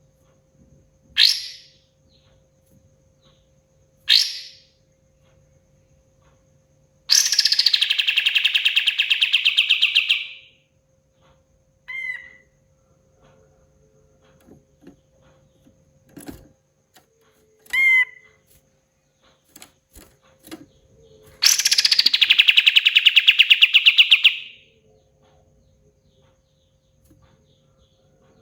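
Kapas tembak bird singing: two short sharp notes, then a rapid rattling run of repeated notes lasting about three seconds, a few brief whistled notes, and a second rapid rattling run near the end. A faint steady hum runs underneath.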